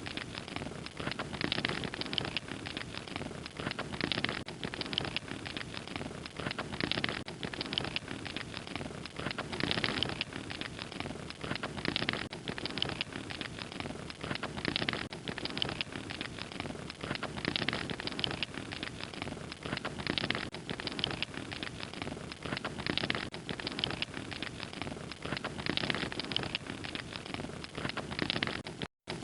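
A fire crackling steadily, with many small pops over a soft hiss. The sound cuts out for an instant near the end.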